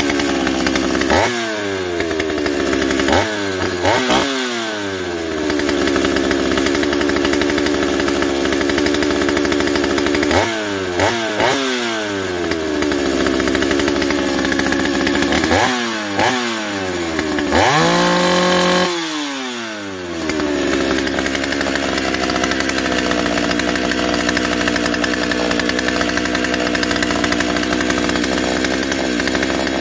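Stihl 028 Wood Boss chainsaw's two-stroke engine running after carburetor and ignition repairs. It idles and is blipped up to revs again and again, the pitch sliding back down each time, then is held at high revs for about a second and a half past the middle before settling into a steady idle.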